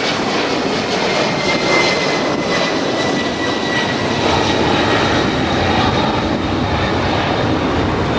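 Engines of a departing airliner just after lift-off, a loud steady rush with a faint high whine that slowly falls in pitch as the plane climbs away.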